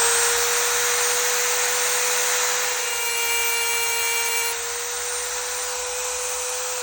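Dremel rotary tool with a cutting disc running at full speed and grinding into an Insta360 camera lens: a steady high whine over a harsh grinding hiss, a little lighter about four and a half seconds in. The cut is not yet through.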